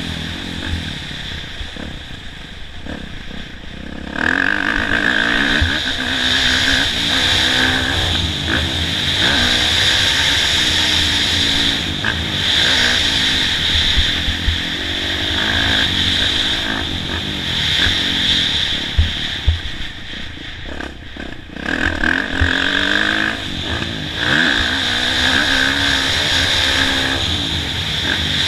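Motocross bike engine revving up and down again and again as it is ridden, its pitch rising and falling through throttle and gear changes, with a few sharp knocks. It is softer for the first four seconds, then louder.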